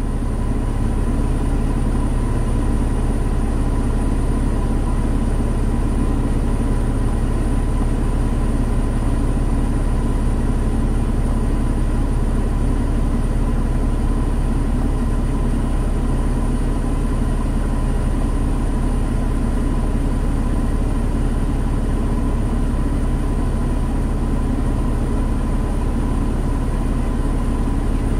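A Mercedes-Benz M112 2.6-litre V6 idling steadily at about 700 rpm, fully warmed up, with the air conditioning running, heard from inside the cabin. The engine is running normally.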